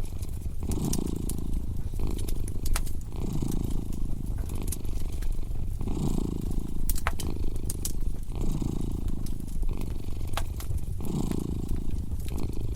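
A domestic cat purring steadily, the purr swelling with each breath about every two and a half seconds, over a crackling wood fire with scattered sharp pops.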